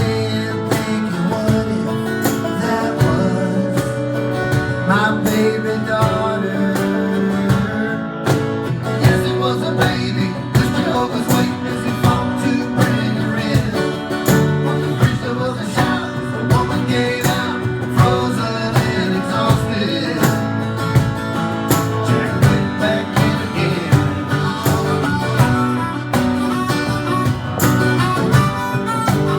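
A country band playing live, with guitars strumming over a steady beat.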